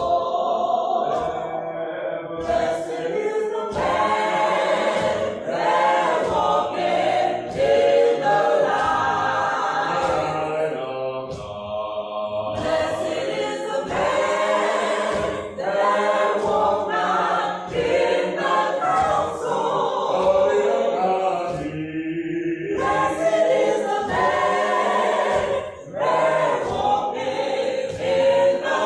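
Gospel choir singing unaccompanied in harmony, many voices carrying the hymn in sustained phrases with short breaks between them.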